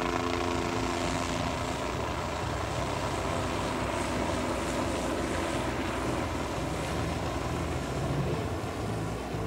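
Bell 407 helicopter in flight, its rotor and turbine engine making a steady, even noise.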